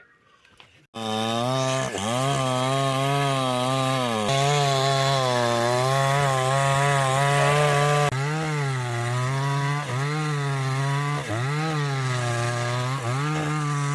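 Two-stroke chainsaw running hard while cutting wood. It starts abruptly about a second in. Its engine note holds steady, then dips briefly and recovers about once a second in the second half as the chain loads in the cut.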